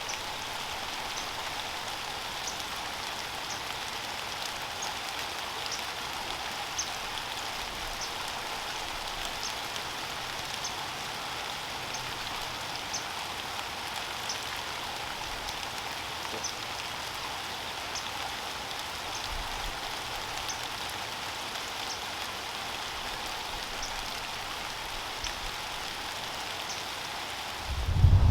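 Steady rain falling, an even hiss, with faint high ticks repeating every half-second or so. Near the end a loud low rumble sets in.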